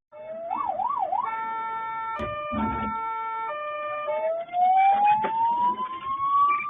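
Emergency vehicle siren cycling through its modes: a quick up-and-down yelp, then steady alternating two-tone notes, then a slow rising wail. Two sharp knocks sound a little over two seconds in.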